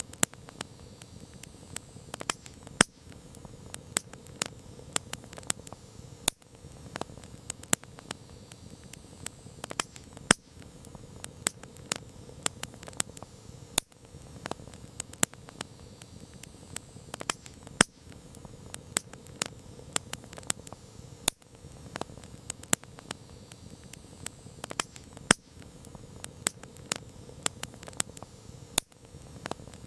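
Wood campfire crackling: irregular sharp pops and snaps, a few of them much louder, over a steady low hiss of the flames.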